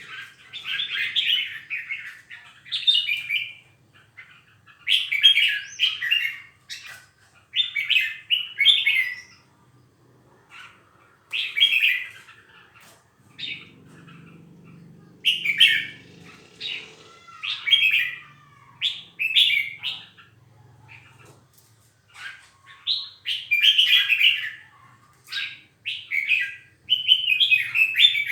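Caged songbirds singing in repeated bursts of quick chattering phrases, with short pauses between them.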